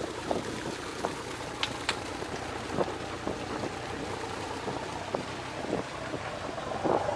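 Passenger ferry under way: a steady drone of engine and water, with a few short clicks and knocks scattered through it.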